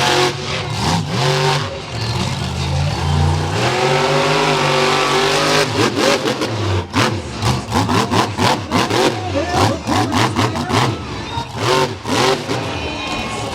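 Monster truck engine revving hard and repeatedly, its pitch climbing and dropping as the throttle is worked, with many sharp cracks and bangs mixed in.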